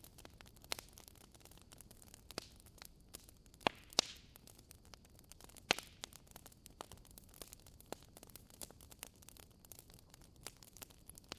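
Wood fire burning in a fireplace: irregular crackling over a faint hiss, with a few louder pops, the biggest about four seconds in and another near six seconds.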